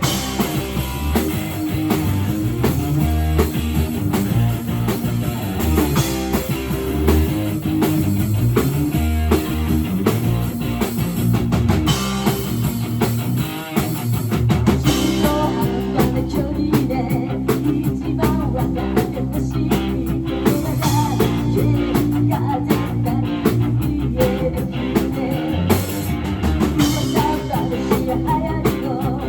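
Live rock band playing: electric guitar, bass and drum kit with a steady beat, with a brief drop a little under halfway through before the full band comes back in.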